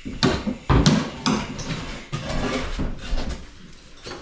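Hard objects clattering: three sharp knocks in the first second and a half, then softer rattling and handling that quietens near the end.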